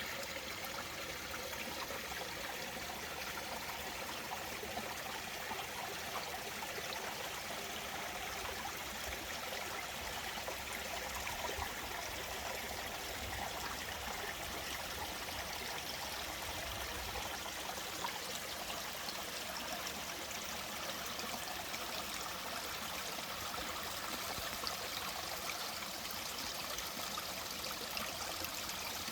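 Mountain valley stream running steadily over rocks, a constant rushing and trickling of water.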